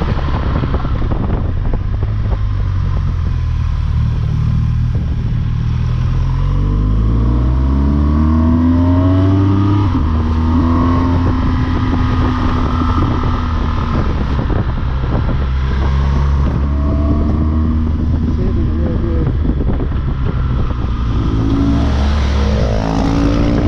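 BMW R1200GS Rallye's boxer-twin engine under way, its revs rising from about six seconds in to a gear change at about ten seconds. It then runs steady and rises again near the end, over a constant rush of wind and road noise.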